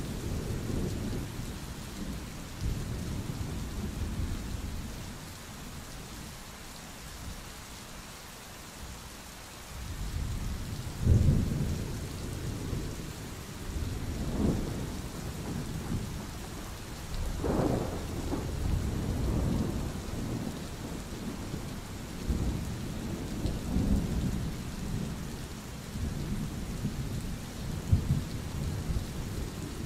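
Thunderstorm: steady rain with low rolling thunder. The thunder eases to a lull, then swells again about ten seconds in, and several more rumbles follow, the sharpest crack near the end.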